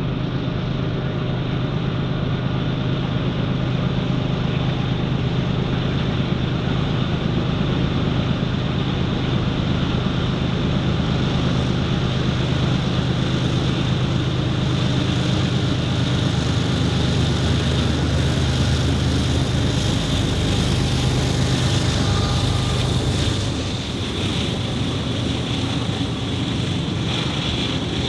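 Norfolk Southern freight train passing close by: a steady diesel locomotive drone mixed with rolling noise from the train. The low drone eases about 23 seconds in.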